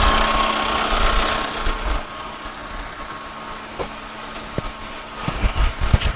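2013 Hyundai Sonata's four-cylinder engine running just after being started by jumping the starter: loud for about two seconds, then quieter, with a few light knocks near the end.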